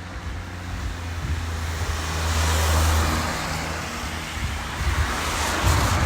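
A car passing on a wet road: tyre hiss and engine rumble swell to a peak about three seconds in, then fade.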